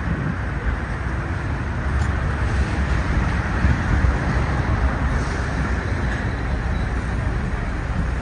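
Steady road-vehicle noise: a continuous low rumble of engines and tyres.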